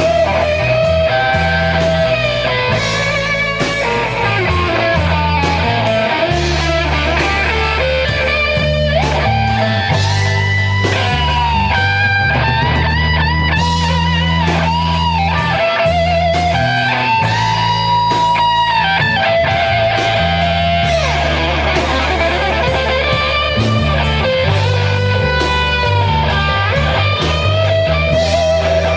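Rock band playing live, with electric guitar to the fore over a steady bass line and drums. The mid-range melody line wavers and bends in pitch.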